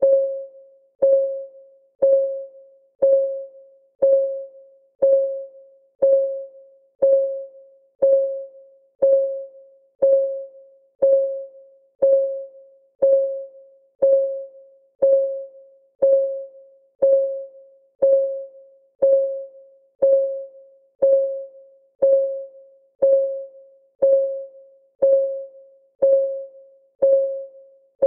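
Ticking sound of a countdown timer: one short, pitched tick each second, each with a sharp start that quickly dies away, going on evenly.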